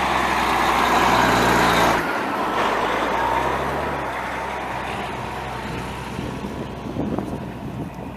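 Walk-behind asphalt saw running, its engine steady under a loud grinding hiss of the blade cutting asphalt. It is loudest for the first two seconds, drops abruptly, then fades steadily.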